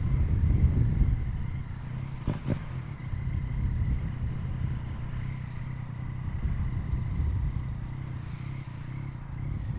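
Yamaha MT-09's three-cylinder engine running under way through an Akrapovic carbon full exhaust, louder for the first second or so and then steady. Two short clicks come about two and a half seconds in.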